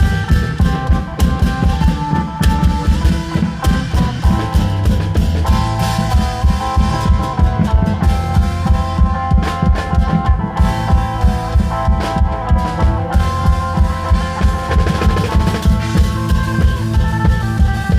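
Thai klong yao long-drum troupe playing a lively, steady beat of about four strokes a second, with a melody played over the drums.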